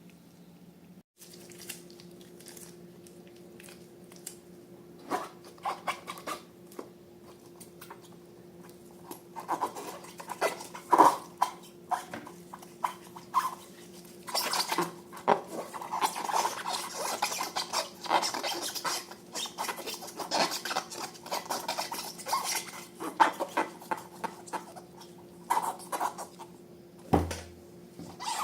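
Sticky slime being squished, stirred and scraped by hand, with irregular wet clicks, crackles and scrapes that grow busier after the first few seconds, over a faint steady hum.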